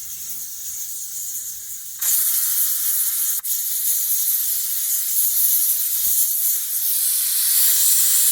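Steady hiss of rain, which jumps louder about two seconds in and holds, with a few faint ticks beneath it.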